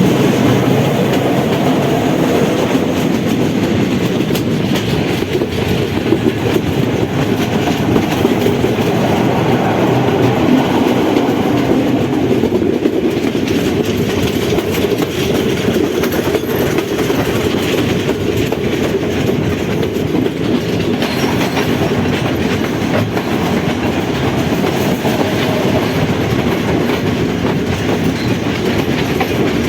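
Passenger train running steadily along the track, heard from on board: a continuous rumble of the carriages with the clickety-clack of wheels over rail joints.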